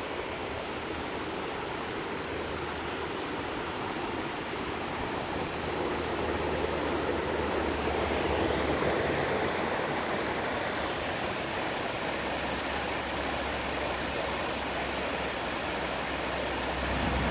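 A waterfall's steady rush of falling water, a little louder for a few seconds in the middle.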